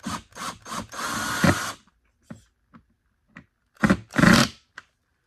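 Power drill-driver driving a screw back in. It gives a few short trigger pulses, then runs steadily for about a second, then two more short bursts near the end.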